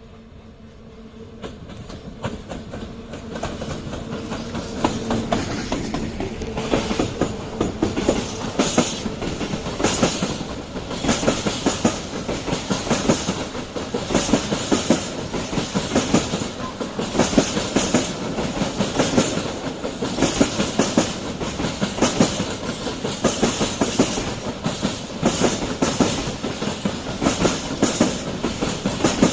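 Train passing close by, its wheels clicking steadily over the rail joints; the sound swells over the first few seconds and then stays level.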